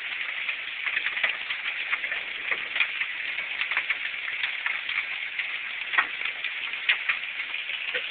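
Quarter-size hail and heavy rain coming down, a dense steady patter with many sharper individual strikes of hailstones scattered through it.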